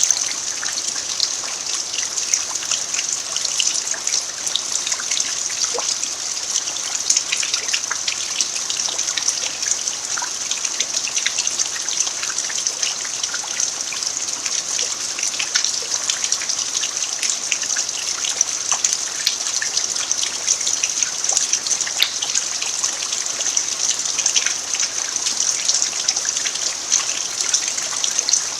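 Steady rain falling on a dirt farmyard: an even hiss with many separate drops ticking through it.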